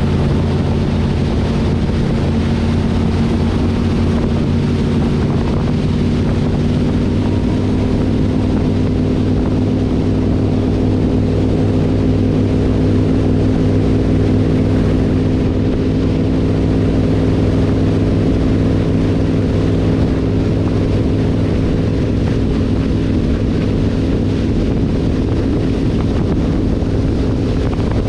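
Avanti 33's twin V8 inboard engines running steadily at speed, pitch climbing slightly a few seconds in, with wind buffeting the microphone.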